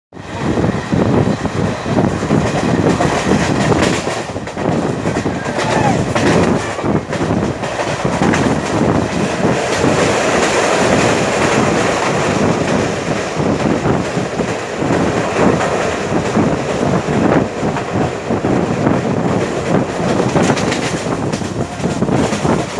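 Passenger train running at speed, its wheels clattering steadily on the track amid rushing running noise.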